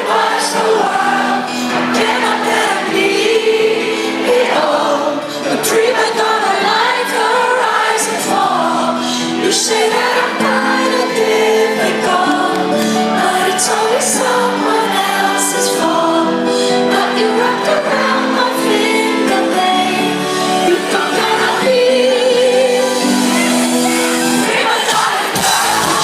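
Live pop music with a female lead voice singing over the band, loud and continuous.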